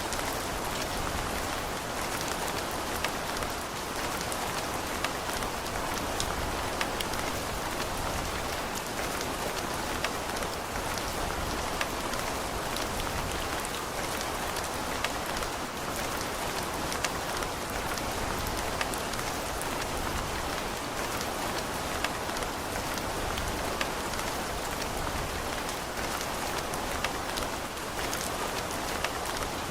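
Steady rain falling and pattering on surfaces, with many small individual drop ticks over an even hiss.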